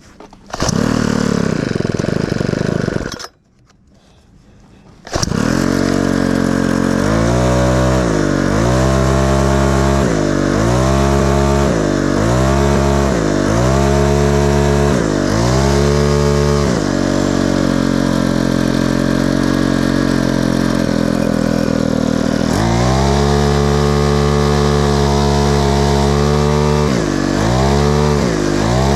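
A small engine starts and runs for about three seconds, then cuts out. It starts again a couple of seconds later and runs steadily, its pitch dipping and recovering again and again as the throttle is worked.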